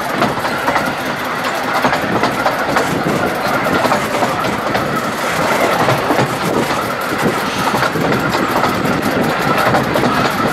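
Narrow-gauge heritage train running along the line: a steady, loud rattle of wheels and carriages with a fine clicking over the rail joints.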